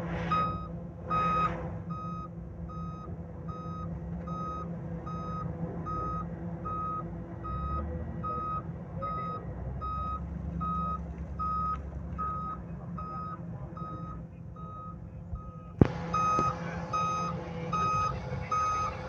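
A heavy machine's reversing alarm beeps steadily, about two beeps a second, over a diesel engine running. There are two short hisses near the start and a sharp knock about sixteen seconds in, after which the beeping is louder.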